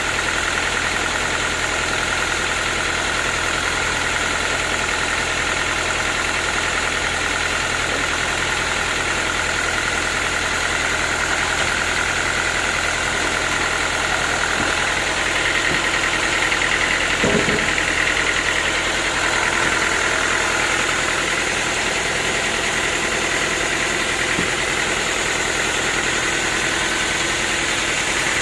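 Sawmill machinery running steadily, with an engine hum and a steady high whine. A single knock sounds about two-thirds of the way through.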